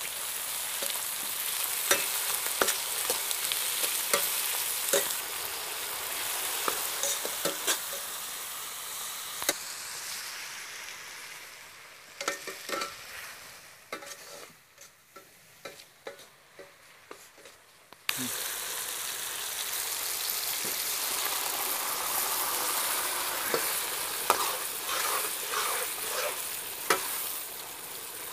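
Onions, tomatoes and dried red chillies sizzling in hot oil in an iron wok, with a metal slotted ladle scraping and knocking against the pan as it stirs. The sizzle fades away after about ten seconds to a quiet stretch of scattered knocks, then comes back suddenly about 18 seconds in.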